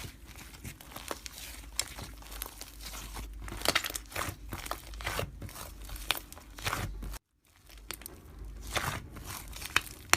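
Slime being played with by hand, giving a run of quick crinkly, crackling clicks and pops. There is a brief dropout about seven seconds in.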